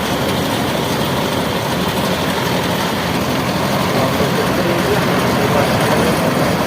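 Mini combine harvester's engine and cutting machinery running steadily while it harvests paddy, a dense, even mechanical din, slightly louder in the second half.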